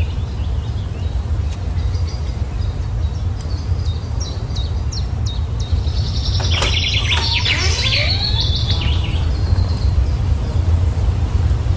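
Birds chirping, with a denser burst of overlapping bird song about six seconds in, over a steady low rumble.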